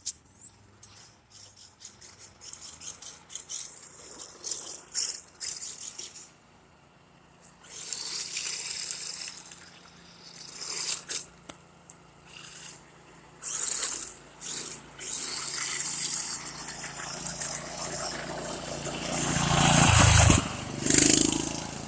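Dirt bike engine, faint at first under scattered knocks and rustles, then growing louder and passing close about twenty seconds in before dropping away.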